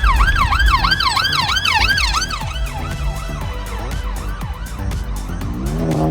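Emergency-vehicle siren winding up, then switching to a fast yelp that fades out after about three seconds. Near the end a lower pitched sound rises and falls, over a steady low rumble.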